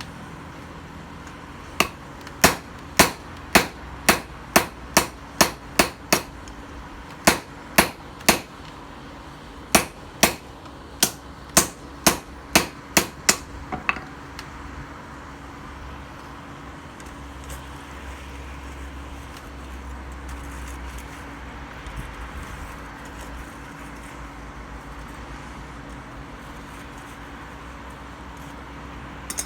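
Hammer striking steel on a metal surface, with sharp ringing blows in quick runs of several strokes, about two a second, for the first half; it stops about halfway through, leaving a steady low hum and hiss.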